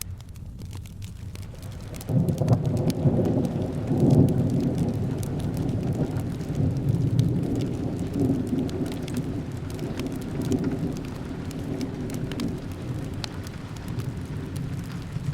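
Rolling thunder over steady rain: a low rumble breaks in about two seconds in, swells twice, then slowly dies away. Scattered sharp crackles from a fireplace sound through the rain.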